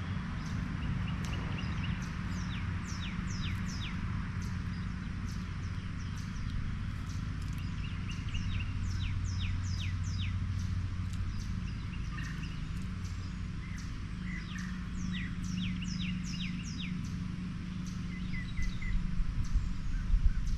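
Small birds calling: repeated short chirps that fall sharply in pitch, coming in quick runs, with a few brief trills between. A steady low hum runs beneath, and some low rumbling rises near the end.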